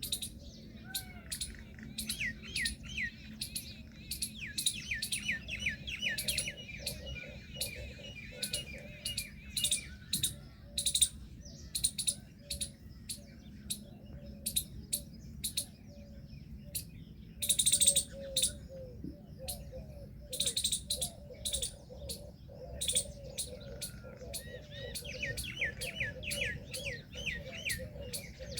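Several birds chirping and calling over one another: dense, sharp chirps throughout, with quick runs of short falling notes and a lower continuous chatter underneath.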